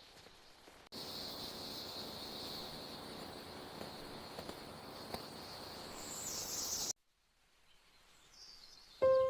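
Nature ambience: a steady outdoor bed with an insect-like buzzing hiss and faint chirps, starting about a second in and cutting off abruptly near seven seconds. After two seconds of near silence, a bright bell-like mallet note begins just before the end.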